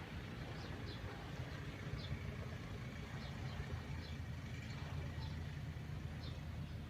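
A steady low motor hum, with short high bird chirps repeating about once a second.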